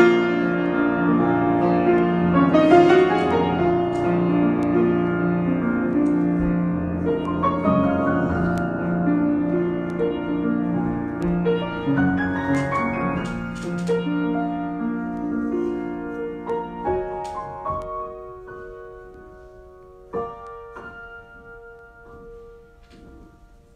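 Solo piano improvisation: full sustained chords and runs that thin out in the second half to sparse single notes, fading away near the end.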